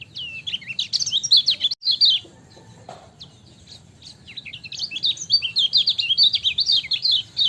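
Kecial kuning, a yellow white-eye, singing a fast, chattering string of high chirps in two bursts: one in the first two seconds and a longer one from about four seconds in.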